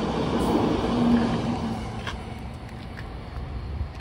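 N700A Shinkansen train's last car going by, its rolling and running noise fading steadily as the train moves away down the track. A low hum is heard for the first second or so.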